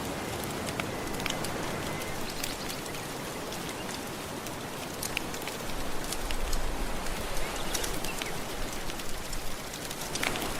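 Gentle ocean waves washing on the shore as a steady hiss, with the scattered crackles and pops of a wood fire throughout. A wave swells up about halfway through.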